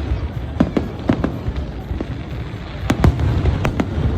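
Fireworks display: a quick irregular series of sharp bangs and cracks from bursting shells over a steady low rumble.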